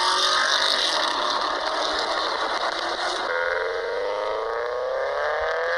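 Motorcycle engine pulling under acceleration, its pitch rising steadily. About three seconds in the note changes, then climbs again.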